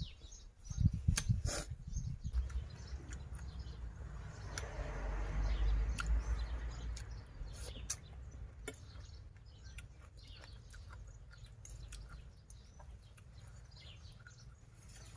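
Close-miked eating sounds: chewing and mouth clicks over a spicy white-seaweed salad with pork sausage, with many short crisp clicks and a louder stretch of chewing about five seconds in.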